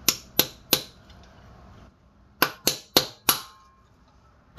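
Small hammer striking the old bearing race laid on a new race, driving the front wheel bearing race into the hub of a 1998 Toyota Tacoma: sharp metal-on-metal taps with a short ring, three quick ones, a pause, then four more in a steady run.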